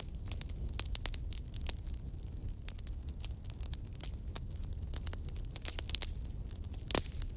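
Wood fire crackling: a steady stream of small sharp pops and snaps over a low rumble of the flames, with one louder crack about seven seconds in.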